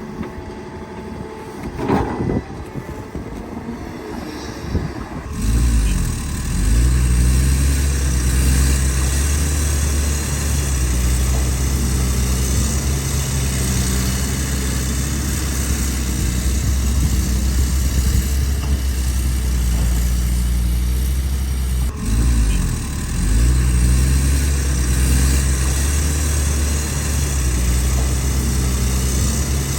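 Excavator's diesel engine running steadily with a deep hum, coming in loud about five seconds in and staying steady after a brief break later on. Before that, quieter machine noise with a single knock about two seconds in.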